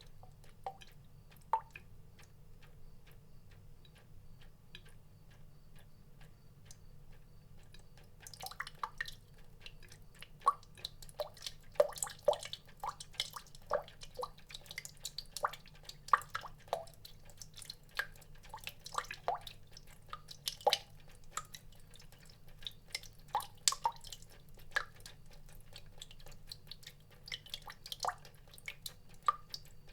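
Water drops falling, each a short plink, at an irregular pace: only faint light ticks for about the first quarter, then the drops come thick and fast for the rest.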